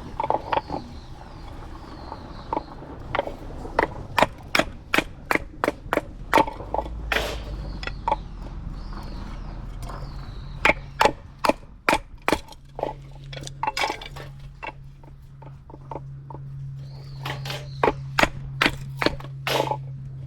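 Dry firewood cracking and snapping in a quick, irregular run of sharp cracks, with a bird calling now and then. A low steady hum comes in about two-thirds of the way through.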